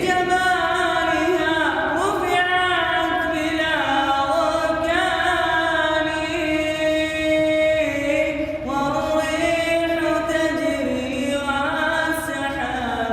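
A man singing an unaccompanied Arabic Islamic nasheed, holding long notes and turning them with melismatic ornaments, with a short breath break about two-thirds of the way through.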